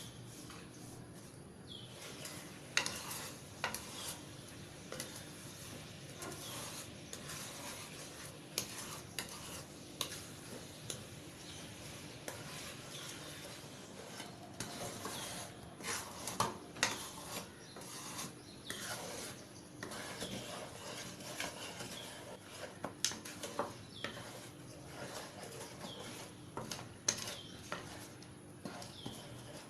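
A spatula stirring and scraping in a cooking pan, with irregular clicks and knocks throughout.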